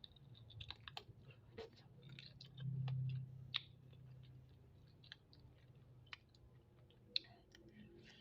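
Close-miked eating of spicy chicken feet: chewing, sucking and wet mouth clicks and smacks, scattered and irregular, with a short low hum about three seconds in.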